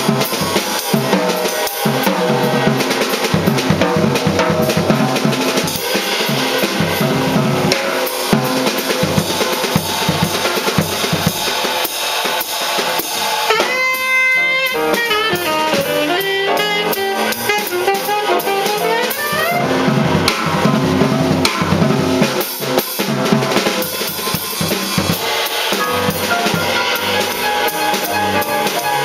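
Live small-group jazz: a drum kit plays busily with snare and rimshot hits and bass drum, over stepping upright bass notes. About halfway through, a pitched melodic run sounds for several seconds above the drums.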